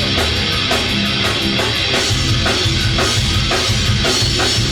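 Live rock band playing loud and steady, with distorted electric guitar and a drum kit keeping a steady beat.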